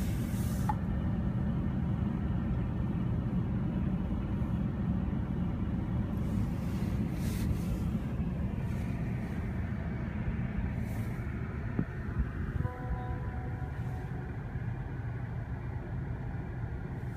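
Long Island Rail Road diesel commuter train of bilevel coaches rolling past, heard from inside a car: a steady low rumble that eases somewhat in the second half, with a faint short tone about two thirds of the way through.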